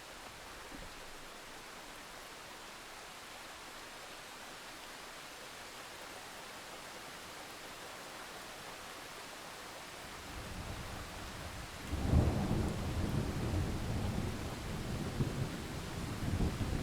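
Steady rain hiss; about ten seconds in a low rumble of thunder builds, breaking into a loud clap about two seconds later that rolls on unevenly.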